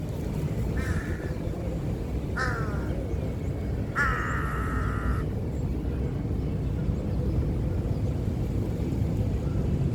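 A bird gives three harsh, cawing calls, the last one long and drawn out, over a steady low rumble.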